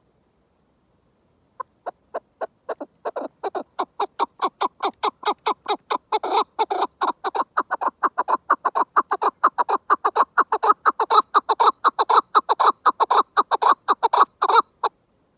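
Chukar partridge calling: a long run of short clucking notes that starts about one and a half seconds in, comes faster and louder, and stops just before the end.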